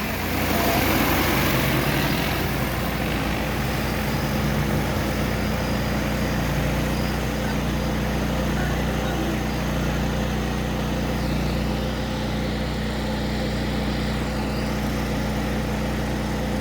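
DJI T40 agricultural spraying drone's rotors humming steadily in flight, a little louder in the first couple of seconds, then even.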